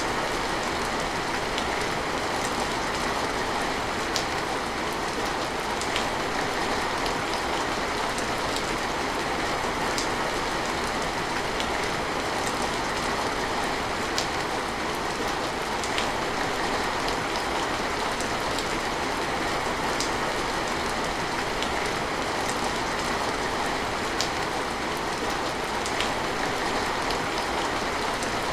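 Steady rain falling, with sharp drips and drops striking a surface every second or so.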